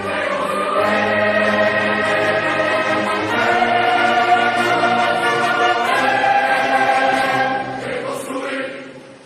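Choir singing slow, held chords that change every few seconds, fading out near the end.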